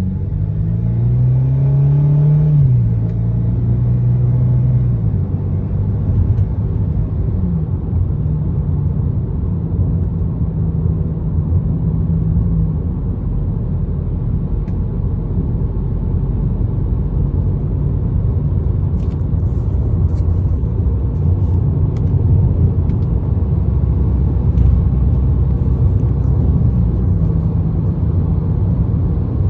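2022 Ford Maverick with a MagnaFlow aftermarket exhaust under way: the engine note rises as it accelerates a second or two in, then settles into a steady low rumble over wind and road noise. The exhaust carries a slight drone, barely noticeable above the wind and road noise.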